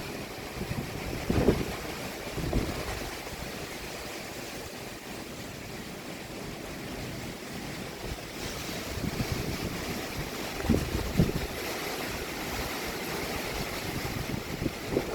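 Hurricane Beryl's gusting wind rushing steadily, with a few brief low buffets of wind striking the microphone.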